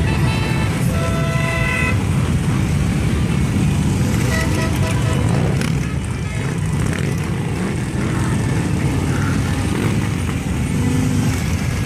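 Many Harley-Davidson V-twin motorcycles rumbling steadily as a parade rides past. Horns toot twice in the first two seconds, with shorter, fainter toots a few seconds later.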